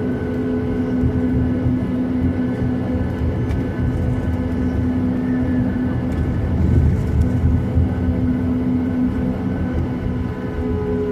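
Boeing 737-800's CFM56 jet engines running steadily: a low rumble under several steady whine tones, with no rise or fall in pitch.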